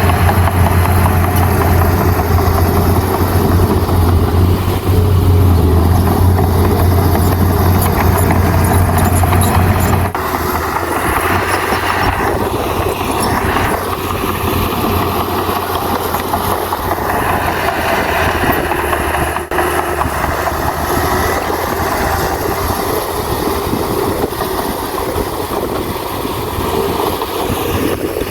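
Heavy diesel earthmoving machinery running, most likely a bulldozer's engine under work. A deep steady drone drops away abruptly about ten seconds in, leaving a rougher mechanical noise.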